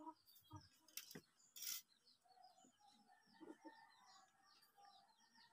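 Faint small birds chirping in the background, with a brief rustle about a second and a half in.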